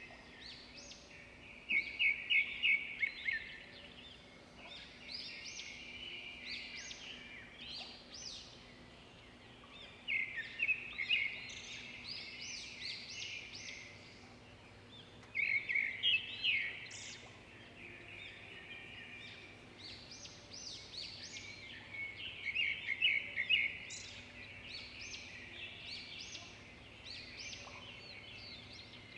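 Swiftlets twittering: loud clusters of rapid high chirps come every few seconds, with softer chirping in between.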